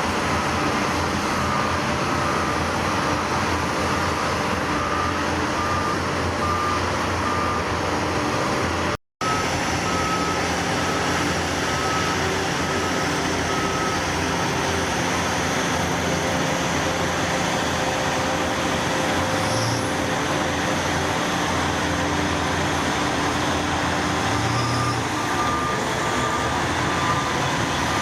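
Heavy diesel machinery running steadily under load, with a reversing alarm beeping about twice a second for the first stretch, again around twelve seconds in, and near the end. The sound drops out completely for a moment about nine seconds in.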